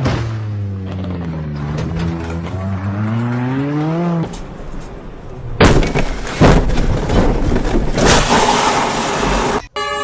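A car engine for about four seconds, its pitch sinking and then climbing again. After a cut come about four seconds of loud, harsh crashing noise with several sharp jolts, ending abruptly.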